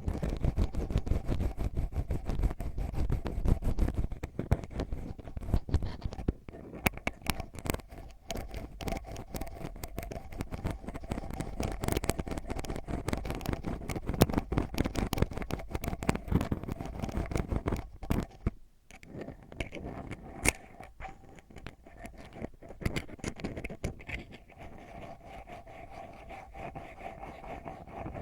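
ASMR ear-cleaning sounds: an ear pick scratching and scraping right against the microphone in a dense run of quick strokes, with a brief pause about two-thirds of the way through.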